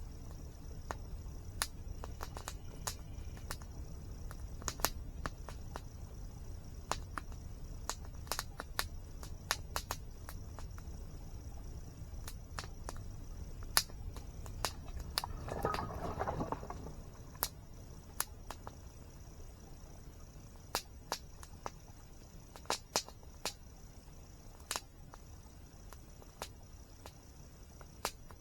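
Wood campfire crackling, with scattered sharp pops, over the low steady rush of a waterfall and a constant high insect drone. About halfway through there is a brief, louder rushing surge.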